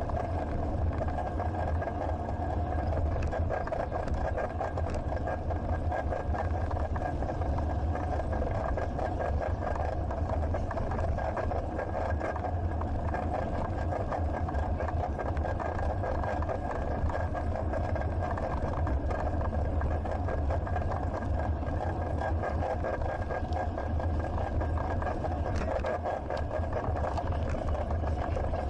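Steady rumble of wind and rolling noise picked up by an action camera on a moving bicycle.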